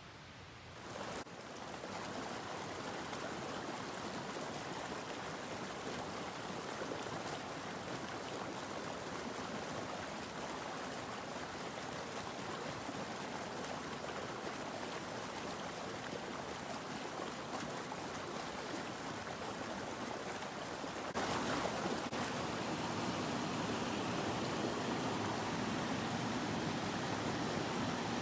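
Mountain stream flowing, a steady wash of water that gets louder about a second in and steps up again about three quarters of the way through.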